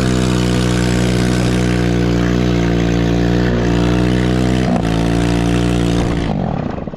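Chinese 110cc ATV's single-cylinder engine held at steady high revs during a snow drift, then the revs fall away about six seconds in as the throttle is released and it drops toward idle.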